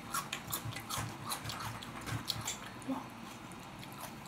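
Close-miked chewing of a mouthful of raw onion: a quick run of crisp crunches, about three a second, that thins out and stops about three seconds in.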